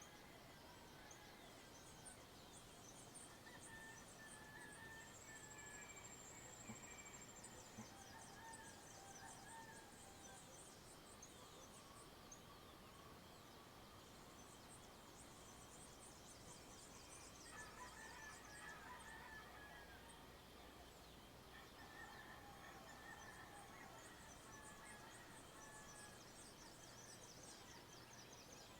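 Faint countryside dawn chorus: scattered whistled bird calls, with runs of rapid, high-pitched chirping coming and going, and a busier stretch of calls a little past the middle.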